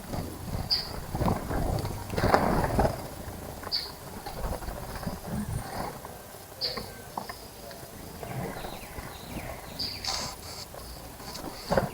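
Small birds splashing in a bird bath, with short high chirps every few seconds. The splashing is loudest near the start.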